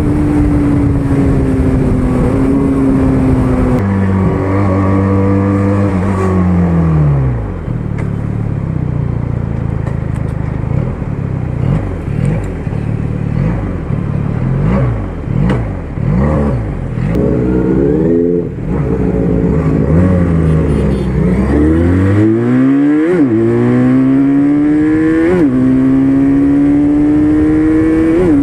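QJ Motor SRK400's parallel-twin engine under way: running at steady high revs, then the revs fall in steps as it slows. A run of short throttle blips at low revs follows, then the revs climb steadily, with two brief dips at upshifts near the end.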